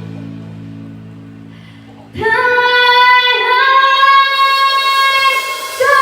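A young girl's voice singing long held notes that step up in pitch twice, entering loudly about two seconds in after a sustained accompaniment chord fades away.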